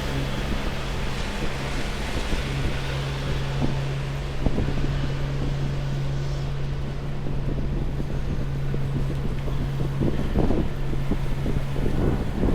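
Wind buffeting the microphone over a steady low hum, perhaps from a running machine or engine. The hum stops near the end, where the wind comes in gusts.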